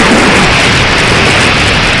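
Strong wind buffeting the microphone: a loud, continuous rush of wind noise with low rumbling gusts.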